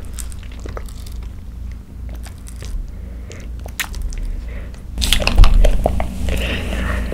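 Sipping strawberry-yogurt bubble tea through a wide straw, with sparse small clicks. About five seconds in come louder, wet, squishy chewing sounds of tapioca pearls.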